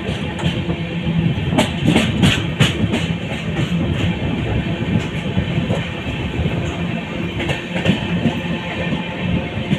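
Running noise of an express train's passenger coaches heard from on board at speed: a steady rumble with the wheels clattering over rail joints and points. A quick run of clacks comes about two seconds in and a few more shortly before the end.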